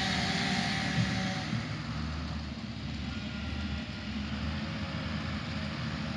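A motor engine running steadily at idle, a low hum with a broad outdoor wash of noise.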